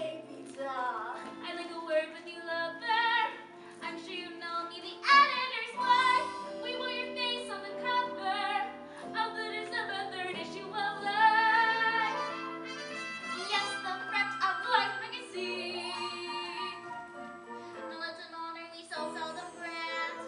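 Live singing of a stage-musical song over instrumental accompaniment, the voices wavering with vibrato over held chords.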